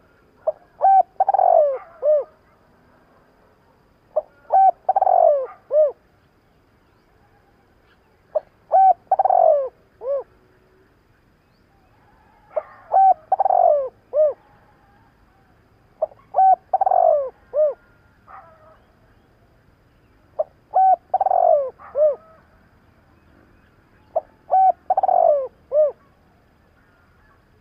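Spotted dove cooing: a song phrase repeated seven times, about every four seconds, each a few short notes and then a longer falling coo. It is the urgent 'thúc' cooing used to rouse a caged decoy dove into calling.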